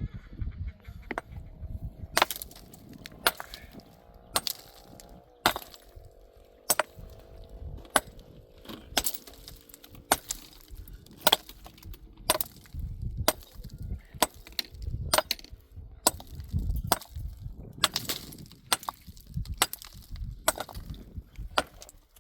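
Repeated sharp chopping blows, roughly one a second. A faint steady drone sits under them through the first half.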